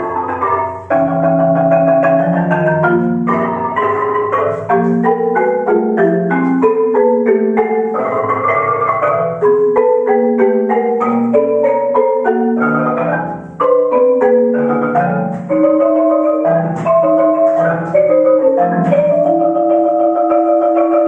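Marimba music: quick runs of struck mallet notes over ringing low notes, settling into longer held notes near the end.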